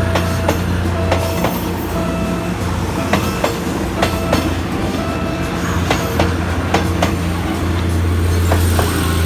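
Philippine National Railways train running past: a steady low engine hum with sharp wheel clicks over the rail joints, often in close pairs.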